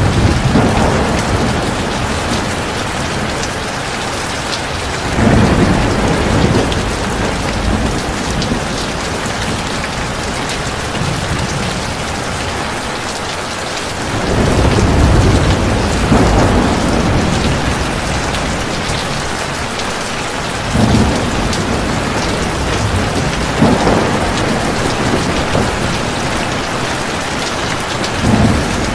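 Heavy rain falling steadily, with several low rolls of thunder rumbling through it, the longest about halfway through.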